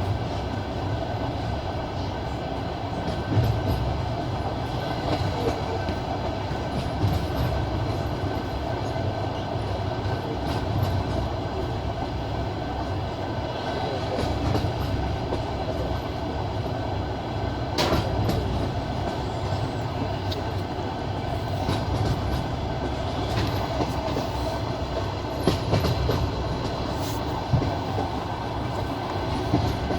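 Passenger train carriage running along the track: a steady rumble of wheels on rail with the clickety-clack of rail joints and occasional sharp clicks.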